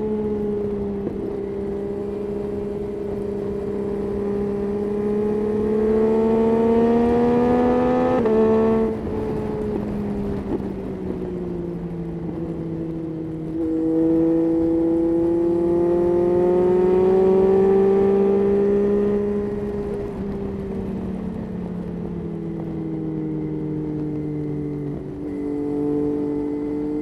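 Yamaha Tracer 9's 890 cc inline-three engine being ridden: its note climbs under throttle, drops sharply about eight seconds in, climbs again a little past halfway, then falls away and runs lower near the end.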